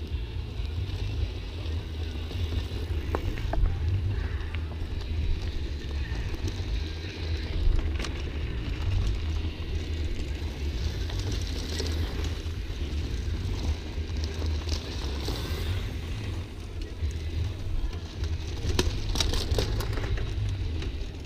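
Mountain bike riding over a rough dirt trail: a steady rumble of wind on the microphone with the bike rattling, plus a few sharp knocks from bumps, one about three seconds in, one near eight seconds and a cluster near the end.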